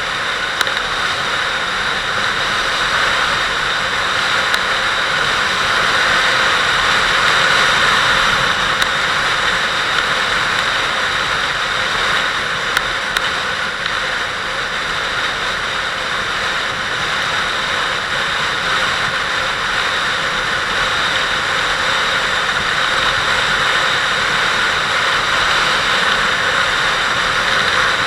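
Steady rush of wind and engine noise from a Kawasaki Vulcan 800 V-twin motorcycle under way, with a few faint small ticks.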